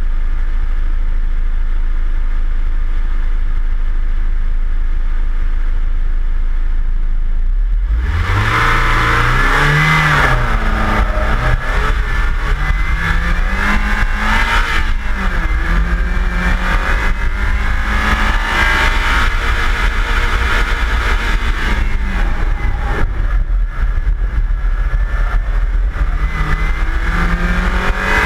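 Mazda Miata's four-cylinder engine giving a low steady rumble for the first several seconds. About eight seconds in it launches hard, and it then revs up and down through an autocross run, running up to the rev limiter.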